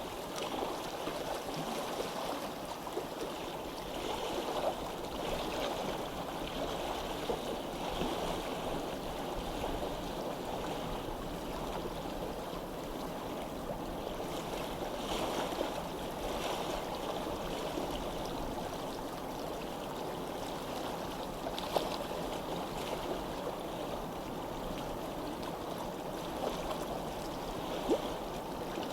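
Flowing stream water, a steady babbling rush with no letup, broken by two brief sharp ticks in the last third.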